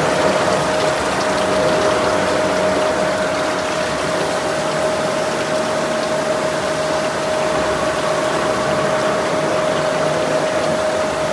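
Gleason 104 straight bevel Coniflex gear generator running, a dense steady mechanical noise with one constant tone held through it.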